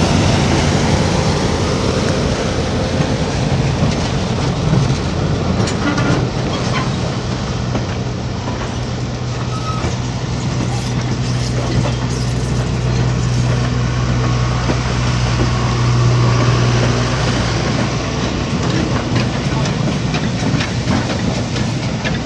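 Excursion passenger train rolling past a grade crossing at low speed: a steady low rumble from the cars with scattered clicks from the wheels on the rails.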